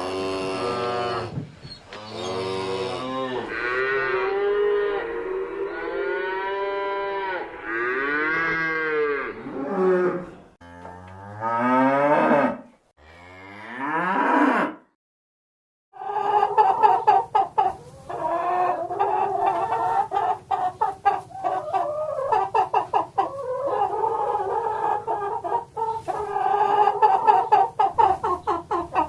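Cattle mooing: a string of long, pitched calls that rise and fall. About halfway through they stop, and after a second of silence chickens take over, clucking rapidly and without a break.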